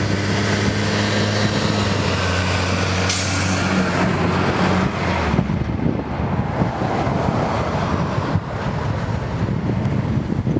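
Jet engine rumble from a departing Boeing 747-8, with a steady low engine hum that cuts off about five seconds in, leaving a wavering rumble and wind on the microphone.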